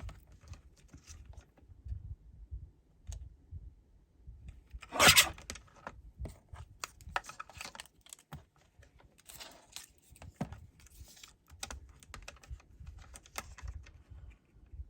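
Paper strips being trimmed and handled at a craft desk: scattered small clicks, snips and rustles, with one louder paper rustle about five seconds in.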